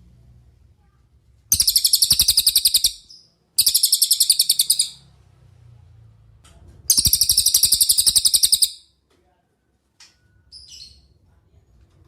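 Cililin bird singing: three loud, rapid trills of quickly repeated high notes, each lasting about a second and a half, followed by a short faint call near the end.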